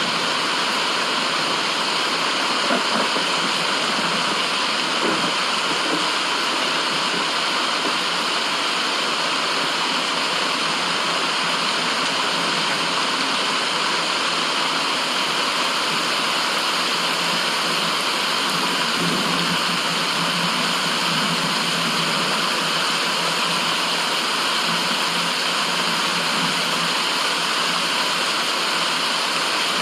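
Steady, unchanging rushing white noise with the character of running or falling water.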